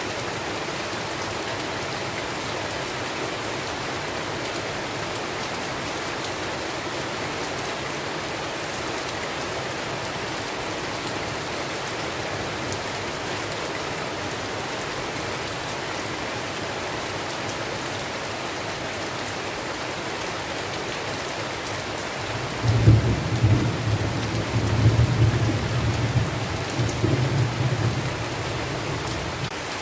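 Steady heavy rain falling, with a long, uneven rumble of thunder rolling in about three-quarters of the way through and dying away near the end.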